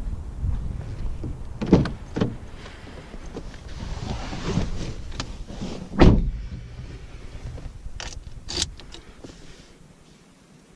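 Knocks and clicks inside a car, the loudest about six seconds in, over a low rumble that dies away near the end.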